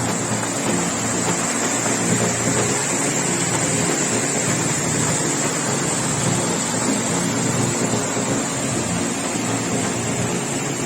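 Waterfall in full flow: a steady, even rush of falling water.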